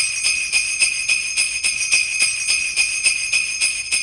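Sleigh bells jingling, shaken in a steady rhythm of about three to four shakes a second.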